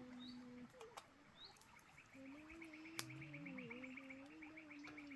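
Faint bird chirps over a fast rhythmic chirping, with a low humming tone that breaks off and comes back wavering in pitch, and a single sharp click about three seconds in.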